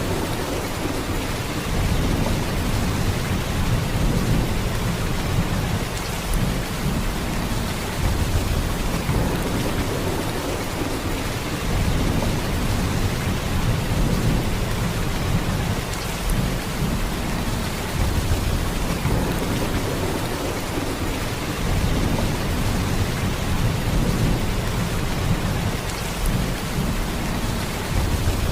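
Heavy, steady downpour of rain, an even hiss, over a deep low rumble that swells and eases every few seconds.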